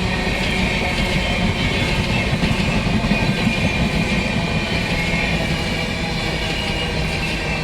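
Train hauled by an Indian Railways WAP-7 electric locomotive moving slowly at close range: a steady rumble of wheels on rail, with a faint high whine over it.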